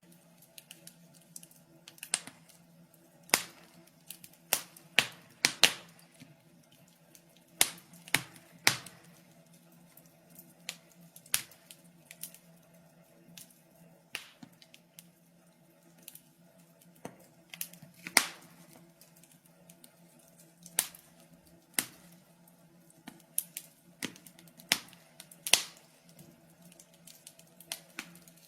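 Wood fire crackling, with sharp irregular pops and snaps every second or so over a faint steady hum.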